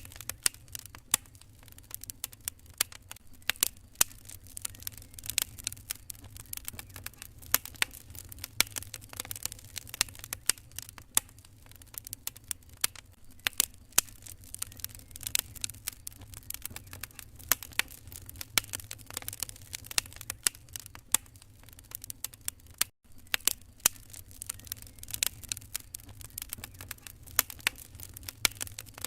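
Fireplace fire crackling: many irregular sharp pops and snaps over a low steady rumble, with a momentary cut-out about three-quarters of the way through.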